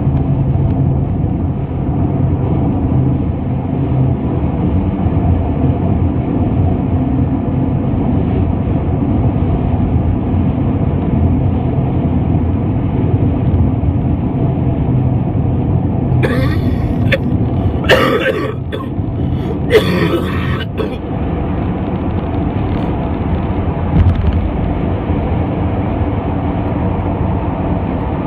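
Steady road and engine drone inside a moving car at highway speed. About two-thirds of the way through come three short, harsh noisy bursts.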